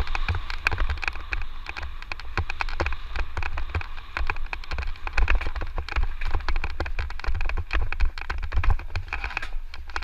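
Electric mountain bike rolling over a rough dirt trail: a dense, irregular clatter of tyres on loose ground and the bike rattling, over a steady low wind rumble on the microphone.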